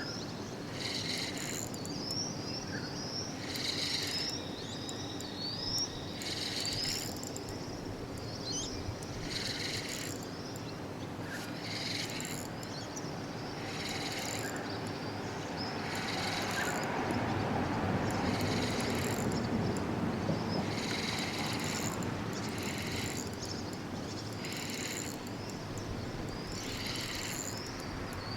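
Outdoor ambience: insects chirping in regular pulses about once a second, with birds giving quick rising chirps over the first few seconds. Road-traffic noise swells about two-thirds of the way through.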